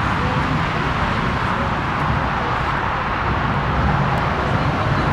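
Steady jet engine noise from a Lufthansa Airbus A340-300's four CFM56 turbofans, with a low, uneven rumble underneath.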